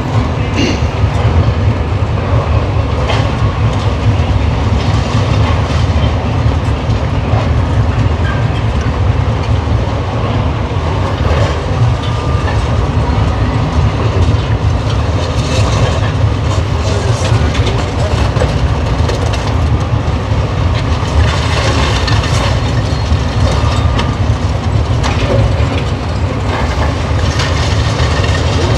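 Demolition excavator working on a concrete building: a steady heavy engine rumble with bursts of crunching and clattering concrete and rubble, loudest a little past the middle.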